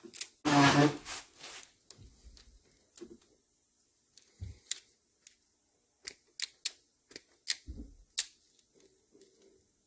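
Small parts being handled at close range: sharp separate clicks and light rustling as tiny wires and metal terminals are worked by hand. A short, loud, pitched buzz about half a second in is the loudest sound.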